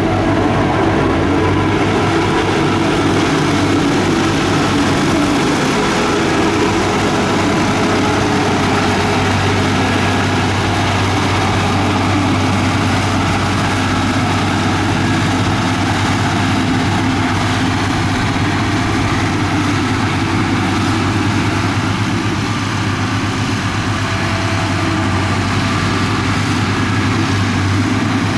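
Komatsu bulldozer's diesel engine running steadily, a loud, deep drone that eases slightly about three-quarters of the way through.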